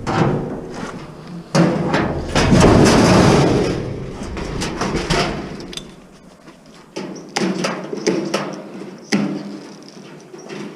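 Metal appliance parts clattering and scraping as they are handled and pulled apart, followed by a few separate sharp knocks in the second half.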